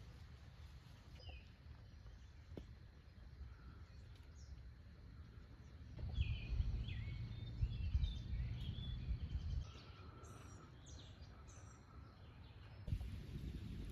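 Birds chirping and singing in short phrases over a faint steady outdoor background, with a low rumble from about six to ten seconds in.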